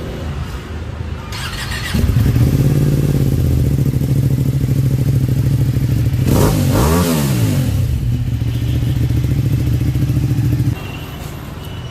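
Ducati Panigale V2's 955 cc twin-cylinder engine running through a full Akrapovič exhaust. It ticks over, then is held at raised revs from about two seconds in, gives one quick rev up and back down midway, and drops back to idle near the end.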